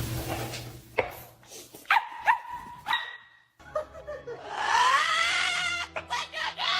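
A dog giving several short barks, then one long whining call that rises and falls, followed by a few more short yips.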